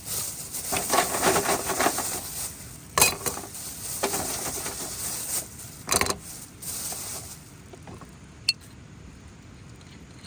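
Camp cookware and utensils being handled: scraping and rubbing, two sharp knocks, and a single short clink near the end.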